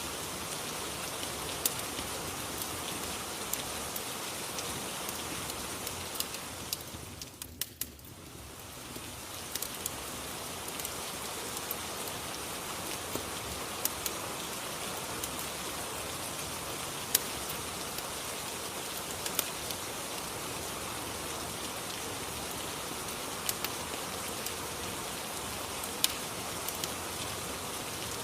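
Rain and fireplace ambience: a steady hiss of rain with scattered sharp crackling pops. The whole bed briefly fades and comes back about seven seconds in.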